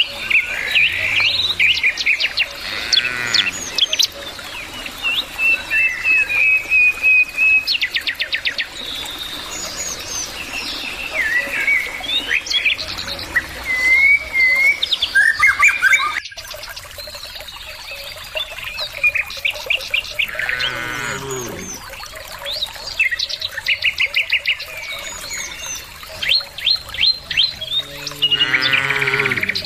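Many songbirds chirping, trilling and whistling all through. Cattle low twice in short calls that fall in pitch, once about two-thirds of the way in and again near the end.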